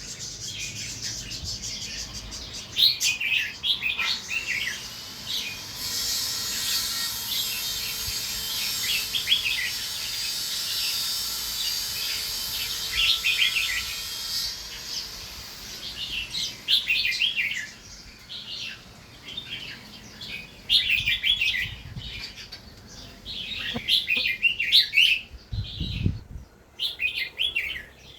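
Red-whiskered bulbuls singing lively, fast phrases against each other in a song contest. A steady hiss sounds for about eight seconds in the middle.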